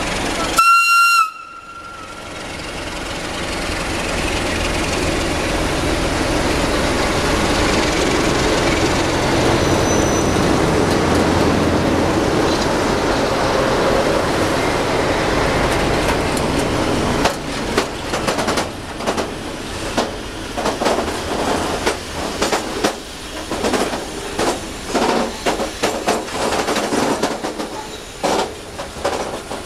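A short blast, about a second long, on the air horn of a CFR class 60 (Electroputere LDE 2100) diesel-electric locomotive. Then the diesel engines of the two locomotives in double traction grow louder as they pass, followed by the regular clickety-clack of freight wagons rolling over the rail joints.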